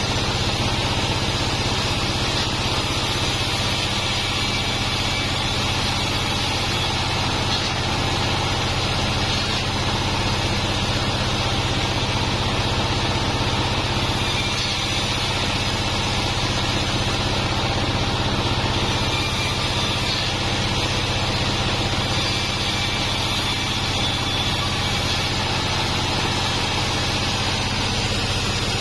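Sawmill bandsaw machine running steadily, a constant low hum under a hiss, with no change in level.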